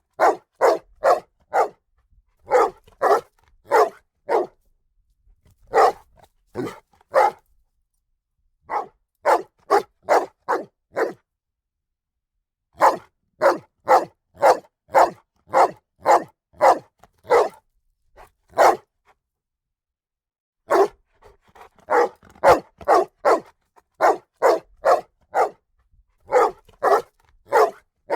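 A dog barking loudly in quick runs of three to six barks, with short silent pauses between the runs and a longer pause about two-thirds of the way through.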